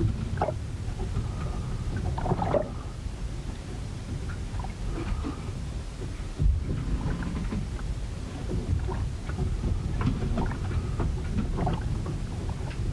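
A wooden ship working in a storm: scattered short creaks and knocks from the hull over a steady low rumble of wind and water, with one heavy thump about six and a half seconds in.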